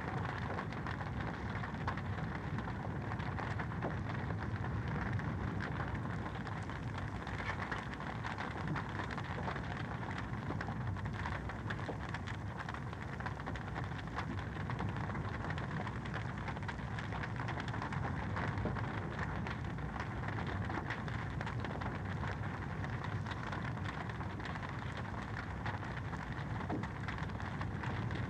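Wood fire crackling steadily in a fireplace: a dense, even run of small pops and snaps.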